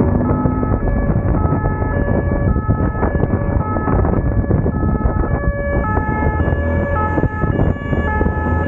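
Two-tone hi-lo police siren, switching between two pitches about every half second, over the steady rumble of a motorcycle engine and wind noise.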